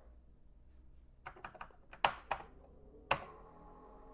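Keys clicking on a computer keyboard as a command is typed: about seven short, irregular key presses, the loudest about two seconds in, then a faint steady hum.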